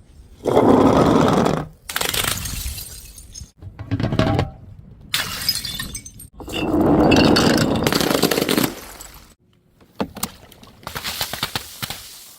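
Glass bottles breaking and shattering, again and again, in a string of short clips with abrupt cuts between them.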